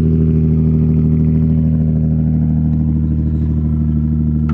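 Nissan 350Z's 3.5-litre V6 idling steadily, heard close to the exhaust tip.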